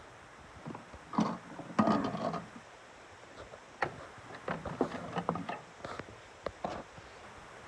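Stones knocking and rattling about inside the plastic drum of a Miele toy washing machine: irregular clicks and short clattering bursts. The stones in the drum are what keep it from spinning.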